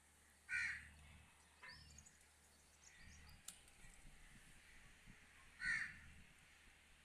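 A bird calling: two short, loud calls, one about half a second in and one near the end, with a fainter call between them.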